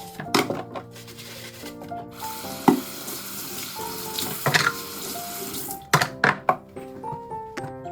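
Water running from a tap into a sink, with several sharp knocks, over background music.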